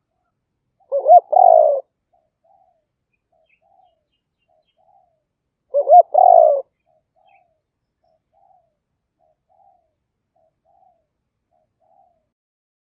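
A captive decoy spotted dove cooing. It gives two loud phrases, each a rising note run into a held coo, about five seconds apart. Soft, short coos repeat about once a second between and after them.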